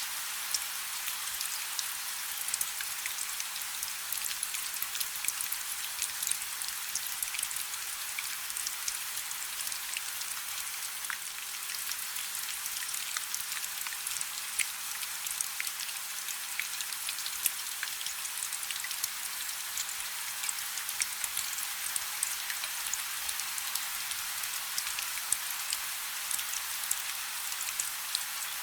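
Light rain falling: a steady soft hiss thick with small, quick drop ticks, with almost no low rumble.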